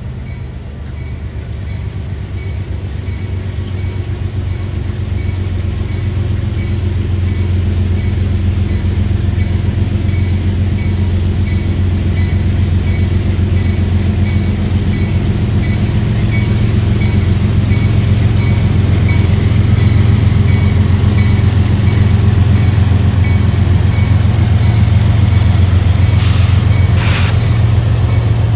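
Diesel locomotive engines running with a deep, steady rumble that grows steadily louder as a train approaches.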